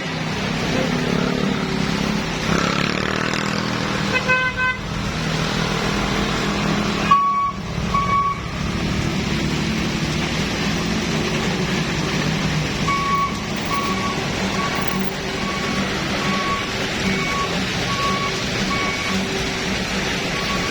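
Heavy truck engine running low and steady, with a short horn toot about four seconds in. From about two-thirds of the way through, an evenly repeating beep sounds, about three beeps every two seconds, like a reversing alarm.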